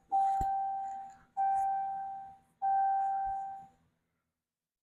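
Dashboard warning chime of a 2014 Ram 1500 sounding with the ignition in accessory: three single-pitched dings about a second and a quarter apart, each fading out before the next.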